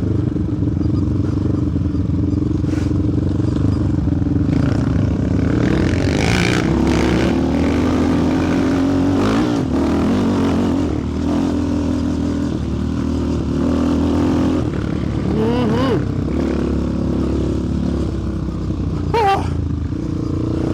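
Sport quad's single-cylinder four-stroke engine running under way, its pitch rising and falling with the throttle, with a couple of brief higher rising-and-falling whines later on.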